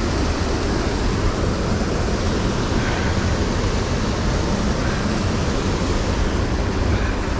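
Steady rushing of river water running over rocks.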